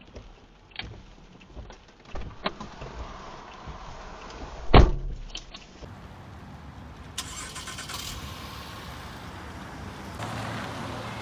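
Car sounds: scattered clicks and knocks, one loud thump about five seconds in, then a steady low running hum of a vehicle.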